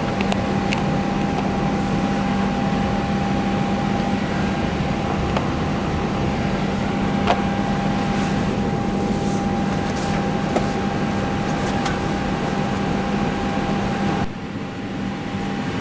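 Steady hum and fan noise in an Airbus airliner cockpit, with a constant whining tone over it. A few light clicks, and near the end the noise drops and the whine stops.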